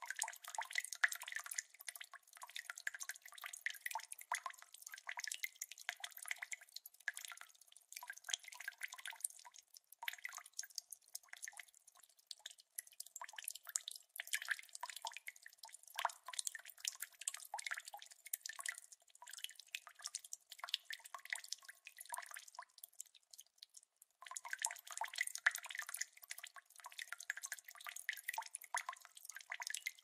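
Water dripping: many small drops falling fast and irregularly, thin-sounding with no bass. The dripping breaks off briefly about ten seconds in and again just before twenty-four seconds in.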